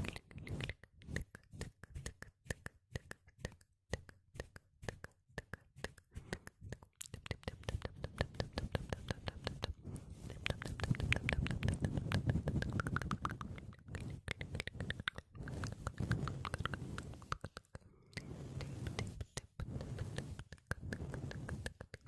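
ASMR mouth sounds close to the microphone: rapid wet clicks and smacks, sparse at first and then coming in fast, dense runs, with a low hum underneath in the middle stretch.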